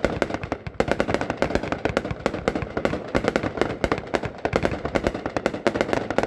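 Consumer fireworks cake (Thunder Guns, 30 shots) firing a rapid string of sharp bangs, several a second, that stops right at the end.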